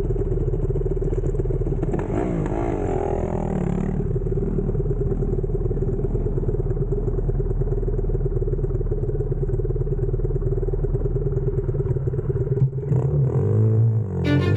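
X-PRO Storm 125cc pit bike's single-cylinder four-stroke engine idling steadily, running again after getting too much water in it.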